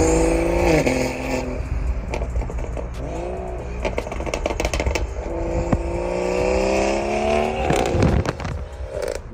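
BMW B58 turbocharged 3.0-litre inline-six on an exhaust straight-piped with the mid muffler removed, revved up twice. The note climbs, drops off sharply, climbs again more slowly, then falls away with a burst of popping and crackling as the revs come down.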